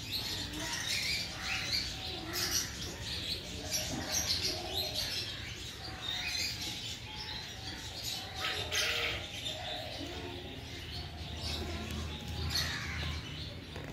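Birds chirping in quick, irregular short calls throughout, over a steady low hum.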